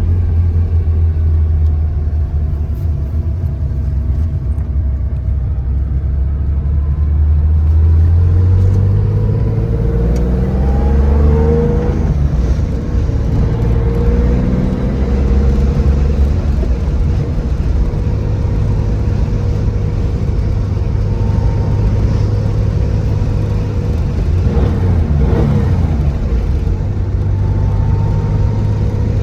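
Air-cooled flat-six of a 1970 Porsche 911 Targa running on the road, its pitch climbing as it accelerates and dropping at a gear change a few seconds in, then pulling up again.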